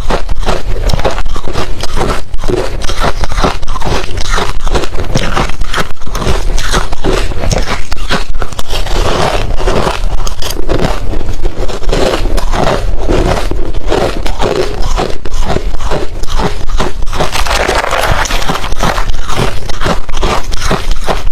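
Refrozen crushed ice being bitten and chewed close to the microphone: a rapid, loud train of hard, crunchy cracks and scrapes.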